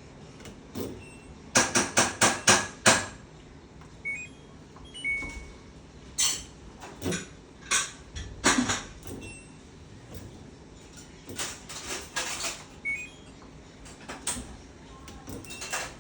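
Knocks and taps on a washing machine, with a quick run of about six loud strikes near the start and scattered single knocks after, and a few short high electronic beeps from its control panel.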